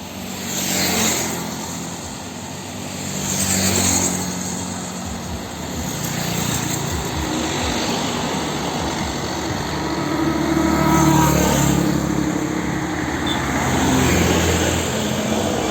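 Road vehicles passing close by. Two quick pass-bys come in the first few seconds, then a heavier vehicle's engine hums steadily for the rest, swelling twice as it goes past.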